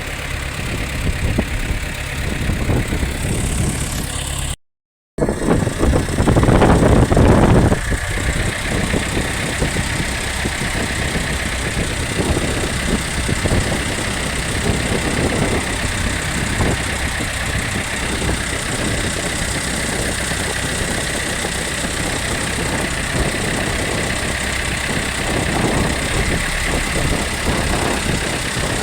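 Fishing boat's engine running steadily under way, mixed with wind and water noise. The sound cuts out for about half a second roughly five seconds in, and a louder rush of a couple of seconds follows.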